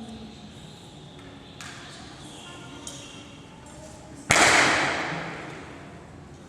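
A sudden loud impact about four seconds in, ringing on and fading away over about two seconds.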